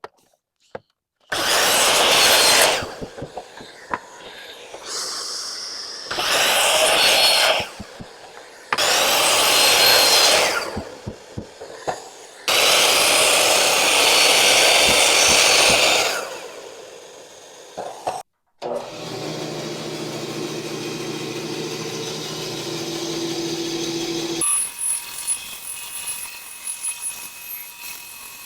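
Power saw cutting wood pieces to length: four separate cuts of one to three and a half seconds each. In the second half, a machine runs steadily with a hum, the sound changing a few seconds before the end.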